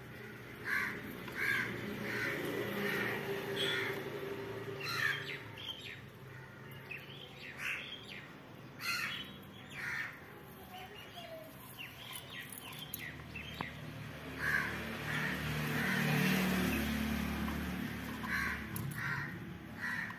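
Birds calling outdoors: runs of short calls, about two a second, coming again and again. In the second half a low rumble swells and fades.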